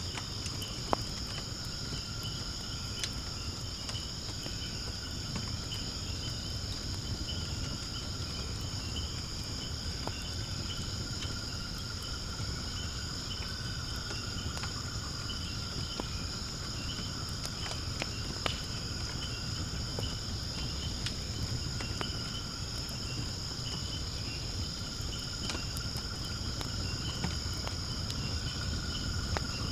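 A steady, high-pitched chorus of insects over a wood fire burning in a fire pit, with scattered crackles and a sharp pop about a second in and another partway through.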